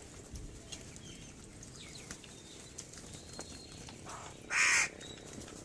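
A crow gives one loud, harsh caw about four and a half seconds in, over faint scattered chirps of small birds.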